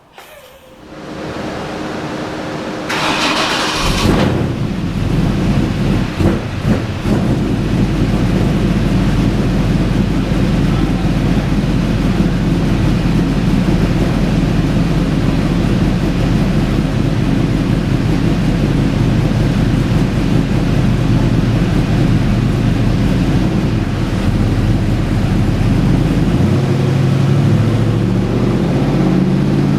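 Fully forged 383 stroker LS V8 in a 1988 Jeep Comanche starting up about four seconds in, then running steadily on the chassis dyno. Its note changes near the end.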